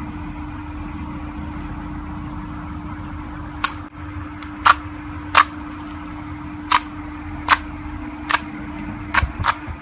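Slime being squeezed and pressed, its trapped air pockets popping in sharp clicks. The clicks come about once a second from a few seconds in, then several in quick succession near the end, over a steady low hum.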